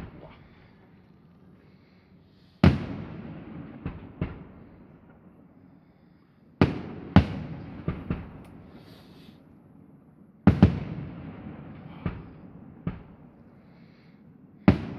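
Fireworks display: aerial shells bursting with sharp bangs. A big bang comes about every four seconds, each followed by a few smaller bangs and a rolling echo that dies away.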